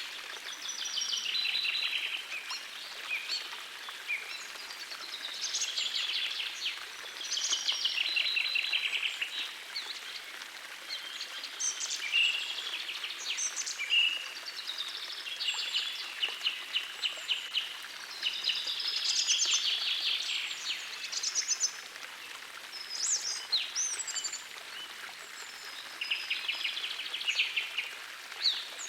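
Songbirds singing, with short trilled phrases repeating every second or two, over the steady hiss of a gentle forest stream.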